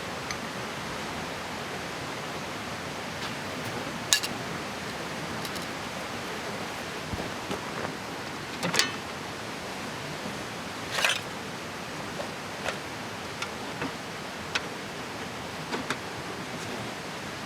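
Steady rush of a flowing river, with scattered sharp clicks and short clatters over it, the loudest about 4, 9 and 11 seconds in.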